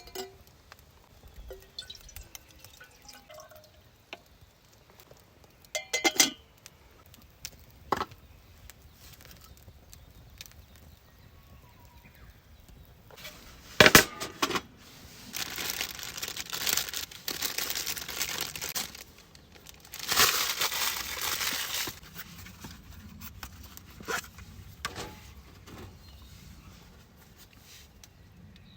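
Things being handled by hand: scattered knocks and clinks, with two longer spells of crinkling about halfway through, each lasting a few seconds.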